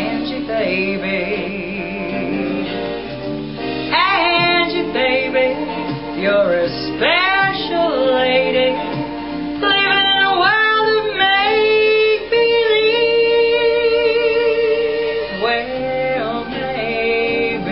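A song sung by a woman over instrumental backing, her voice sliding into notes with vibrato and holding long notes in the second half.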